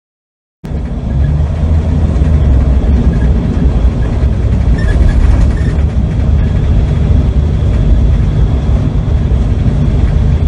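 Steady low rumble of a car on the move, engine and road noise as picked up by a dashcam. It starts suddenly about half a second in.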